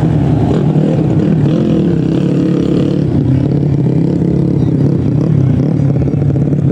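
Racing motorcycle engines running loud and steady, with a dense low drone and small changes in pitch.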